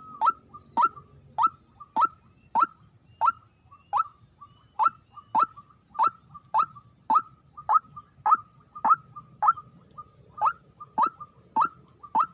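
A bird lure call for rails and waterhens repeating steadily, just under two calls a second: each call is a short, sharp note that drops quickly in pitch.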